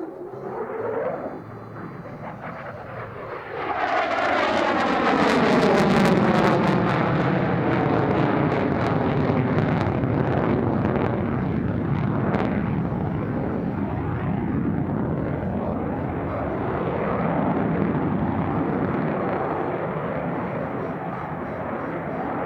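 F-35A Lightning II's single F135 turbofan as the jet makes a low pass. The jet noise swells sharply about three and a half seconds in, crackles and sweeps down in pitch as the jet goes by, then stays loud.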